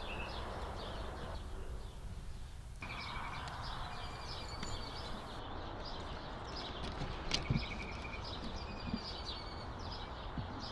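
Small birds chirping repeatedly over a steady outdoor background hum, with a brief knock about seven seconds in.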